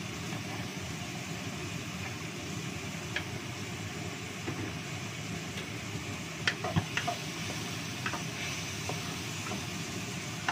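Ground spice paste frying in oil in a non-stick wok, stirred with a wooden spatula: a steady sizzle with a few light knocks of the spatula on the pan, in a cluster about two-thirds of the way through.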